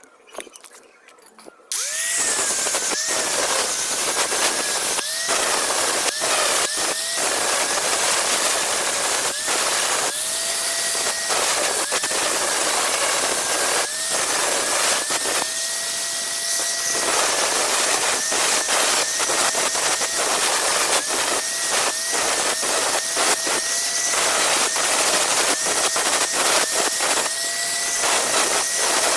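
Electric grinder switching on suddenly about two seconds in and grinding against a steel knife blade, its motor whine repeatedly dipping as it is pressed into the metal and rising back as the pressure comes off.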